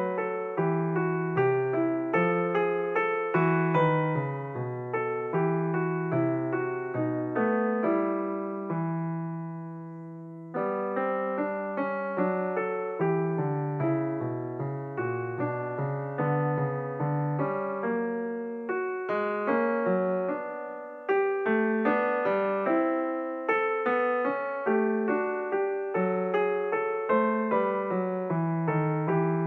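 Background piano music: a steady run of plucked-sounding piano notes, with one held chord dying away about nine seconds in before the playing picks up again.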